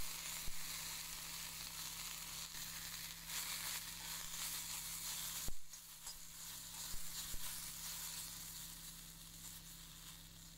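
Chopped okra sizzling steadily as it fries in oil in a kadai, with a sharp knock about halfway through and a few lighter clicks.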